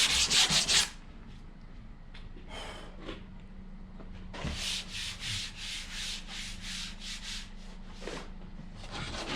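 Sandpaper worked back and forth by hand over hardened Bondo body filler on a car quarter panel, in quick, even strokes: a loud run in the first second, a lull, then another run of strokes from about halfway through. A faint steady hum sits underneath.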